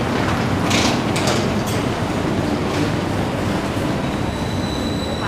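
Steady rumble of a Singapore MRT electric train running nearby, with a steady high whine setting in near the end.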